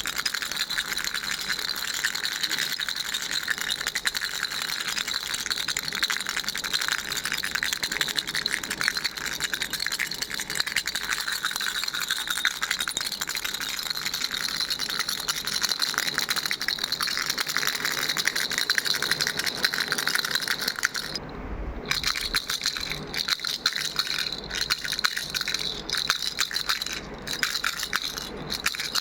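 Pink ball baby rattle shaken steadily, a fast, dense rattling that stops briefly about 21 seconds in, then carries on with a few short breaks.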